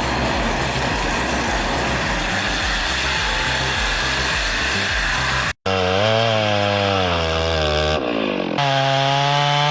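Chainsaw cutting through wood, a loud, dense buzz for about five seconds. After an abrupt break, an engine runs with its pitch wavering up and down, then holds steady after a second break near the end.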